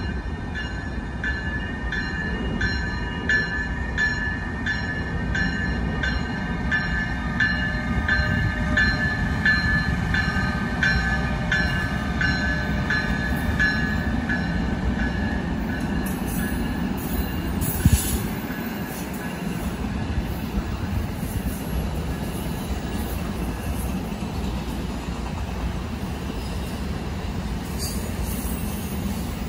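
Train rumbling past on the rails while its bell rings steadily, a ringing stroke about every half-second or so, fading out about halfway through. A single sharp knock follows a few seconds later, and the rumble carries on.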